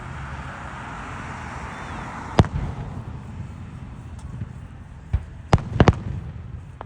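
Fireworks going off in sharp bangs: one about two and a half seconds in, then a quick run of four or five near the end, over a steady low rumble.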